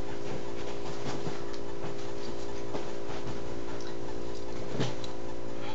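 A steady electrical hum made of several even tones, with a few faint clicks and ticks scattered through it.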